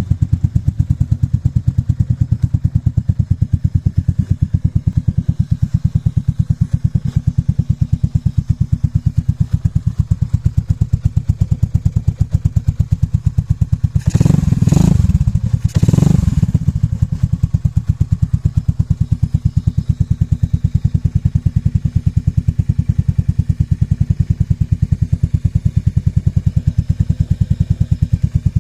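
Aprilia 200 with a swapped-in 500 Sprint engine idling with an even, steady beat of firing pulses. The throttle is blipped twice about halfway through, two short revs, before it settles back to idle.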